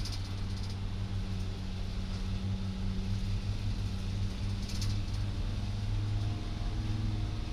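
Cabin noise of a 2006 Sprinter van cruising at highway speed: a steady engine and road drone, with a couple of brief clicks, one at the start and one about five seconds in.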